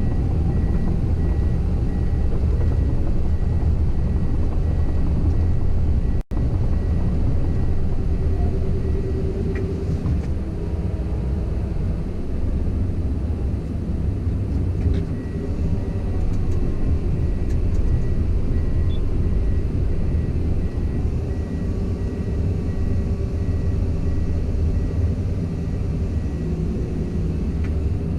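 Komatsu PC170LC-10 excavator's diesel engine running steadily with a loud low rumble, with a few light clicks on top. The sound cuts out for an instant about six seconds in.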